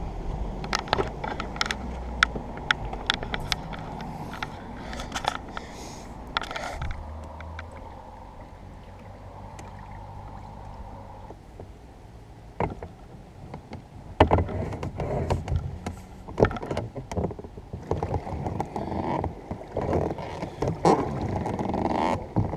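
A small 8ft dinghy being worked by hand: irregular knocks and clunks from the boat and its gear over a low rumble. The knocks thin out for a few seconds around the middle, then come back louder and busier.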